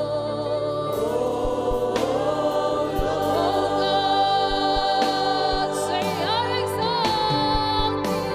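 Live gospel worship music: singing voices over sustained held chords, with a few light percussive hits.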